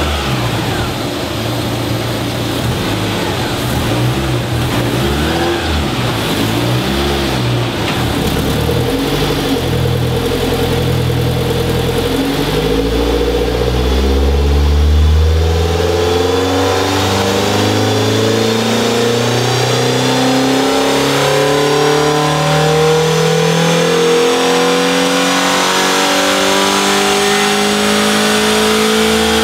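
Peugeot 306's 1.6 petrol engine running on a chassis dyno. It revs unevenly at first. From about twelve seconds in it pulls steadily up the rev range in one long power run, its pitch rising to the end.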